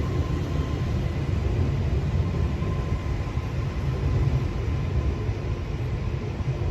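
Commuter train moving through the station: a steady low rumble with a faint steady whine above it.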